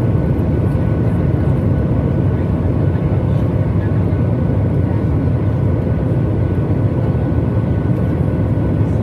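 Boeing 737 MAX 8 airliner cabin noise: a steady, unchanging low rumble from the CFM LEAP-1B engines and airflow, with a faint steady whine on top.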